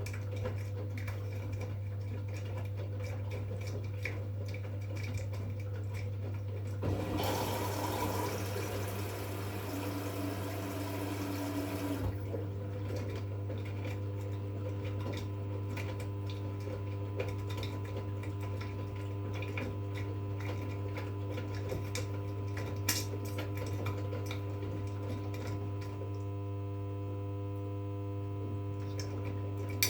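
V-Zug Unimatic SL washing machine running a wash cycle: a steady hum with light clicks and clatter from the turning drum. About seven seconds in, water rushes in for about five seconds, and then a steady whine of several tones carries on.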